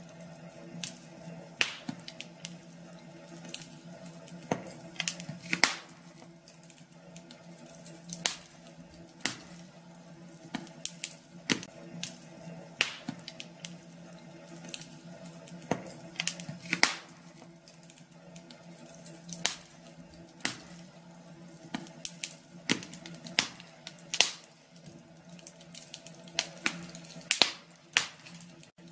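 Wood fire crackling in a fireplace: irregular sharp pops and snaps, a few a second, some much louder than others, over a faint steady hum.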